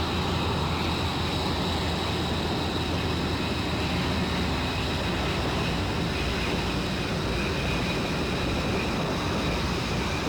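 Fighter jet engine running steadily, a broad rumble with a high, steady turbine whine over it.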